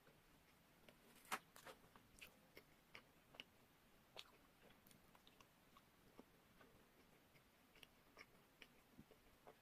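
Close-miked eating of a macaron: biting and chewing with soft crunches and small sharp clicks of the mouth, scattered irregularly, the loudest about a second and a half in.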